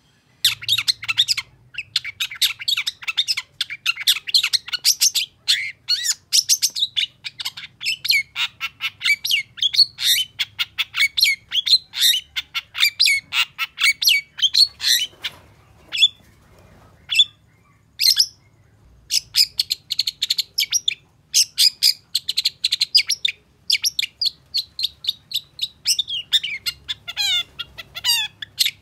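Long-tailed shrike singing a rapid, chattering song of sharp, high notes. It starts about half a second in, thins to a few isolated notes around the middle, then picks up densely again.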